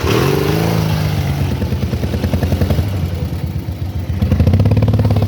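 Ural motorcycle's flat-twin engine running with a steady pulsing beat. The revs drop just after the start and pick up again about four seconds in.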